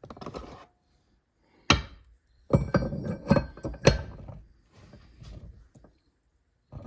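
Metal transmission parts knocking and clinking against each other as they are handled: one sharp knock about two seconds in, then a cluster of knocks and ringing clinks, then lighter rattles.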